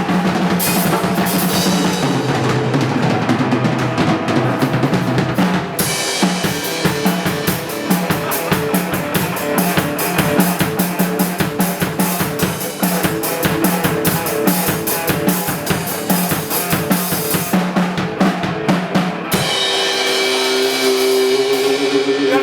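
Drum kit played in a fast, steady rhythm of bass drum and snare over a low held note, making loud music. About three seconds before the end the drumming stops and held pitched instrument notes carry on.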